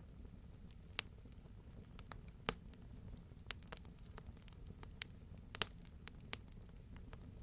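Campfire crackling: a low steady rumble of burning with sharp irregular pops and snaps from the wood, about ten in a few seconds, the loudest about a second in, two and a half seconds in and five and a half seconds in.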